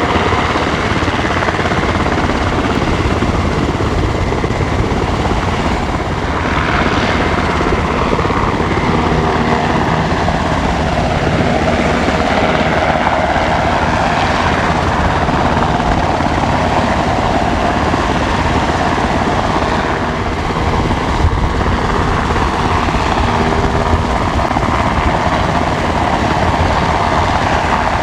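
SH-60K Seahawk helicopter, its twin turboshaft engines and rotor running loud and steady, the pitch drifting slowly up and down.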